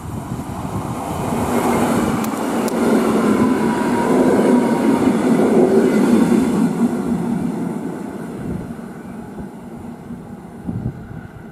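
EN57AP electric multiple unit passing close at speed: wheels on the rails and a steady motor hum swell up over the first few seconds, peak, then fade after about seven seconds.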